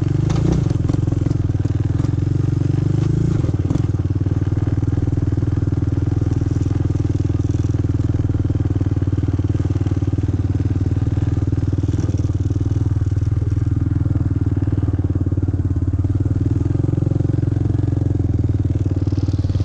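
ATV engine running at a steady idle in neutral, just after being started.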